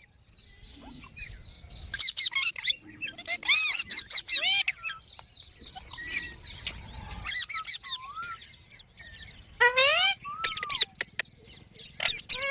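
Pet green parrot calling and chattering in short bursts of rapid, bending whistles and harsh screeches, with quieter pauses between the bursts.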